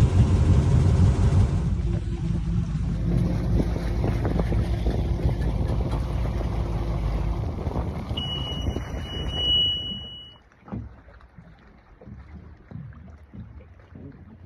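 Boat's General Motors V8 engine running steadily, with a high steady beep for about a second and a half near the end; the engine sound then drops away sharply about ten seconds in, leaving quieter wind and splashy noise.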